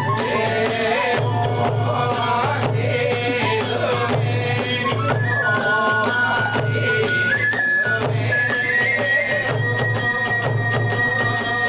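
Kagura hayashi music: a transverse bamboo flute holds long high notes that step upward in pitch, over steady beats of the large drum and rapid clashing of small hand cymbals.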